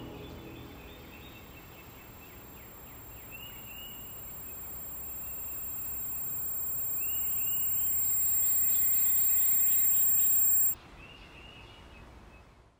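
Birds chirping in short phrases every few seconds over a steady outdoor hiss. The hiss slowly swells and then cuts off abruptly near the end, leaving only the faint chirps.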